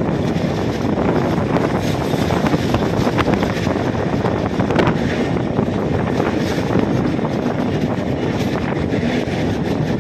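Moving train's steady running noise, wheels rumbling on the track, mixed with wind rushing over the microphone, with a few short clicks.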